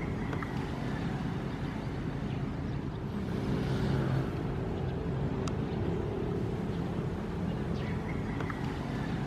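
Ocean waves making a steady low rumble, with one wave surging and washing in about three to four seconds in.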